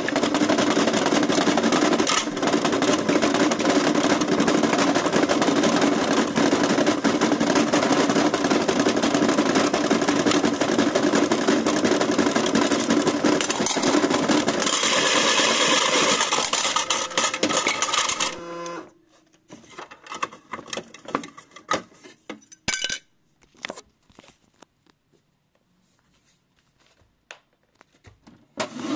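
AEG washing machine running with a loud, dense rattling clatter that stops abruptly about two-thirds of the way through, followed by scattered small clicks and knocks.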